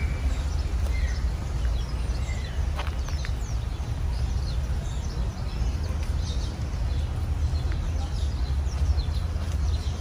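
Small birds chirping here and there, short high calls scattered through, over a steady low rumble.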